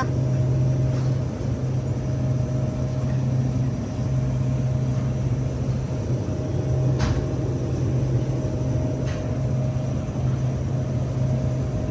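Steady low machine hum with a faint higher tone above it, broken by two short sharp clicks about seven and nine seconds in.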